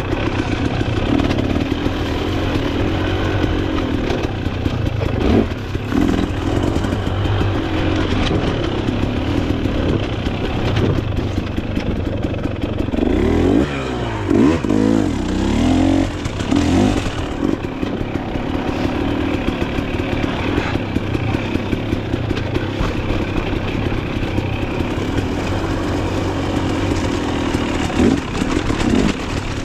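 Dirt bike engine running on a trail ride, its pitch rising and falling with the throttle, with the quickest swings about 13 to 16 seconds in.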